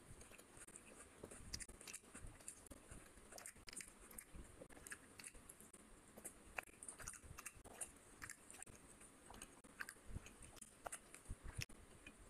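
Quiet, close-miked chewing of a mouthful of rice and fish curry, with many small wet clicks, and soft squelching as the bare hand mixes the rice and curry on the plate.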